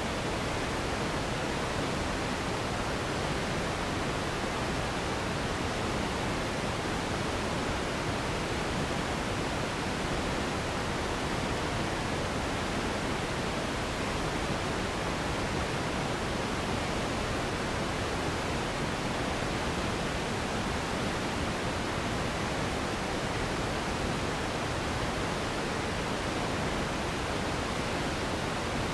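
Steady pink noise: an even, unchanging hiss-like rush with more weight in the low and middle range than in the highs.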